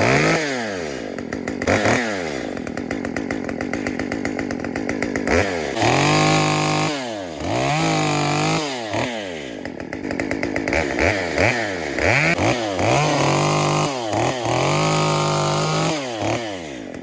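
Stihl MS 194T top-handle two-stroke chainsaw, on its stock bar and chain, being warmed up. It idles between quick throttle blips, with the pitch rising and falling, and in the second half it is held at high revs several times for about a second each.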